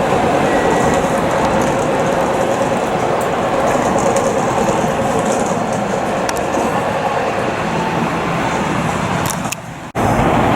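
Train running on rails: a steady rumble with a faint hum that drops away about nine and a half seconds in, then switches abruptly to a different, noisier background near the end.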